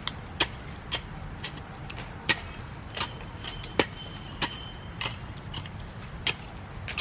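Sharp, irregular knocks and clicks, one or two a second, of a hand tool striking and loosening packed soil around the base of chilli plants.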